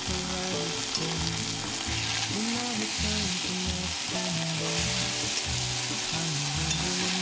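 Green pepper and garlic in miso sauce sizzling steadily in a frying pan as they are stirred with chopsticks, in the last minute of stir-frying over lowered heat.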